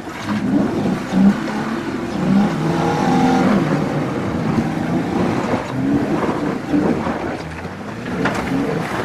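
Off-road 4x4's engine revving up and down as it crawls over rocks on the trail.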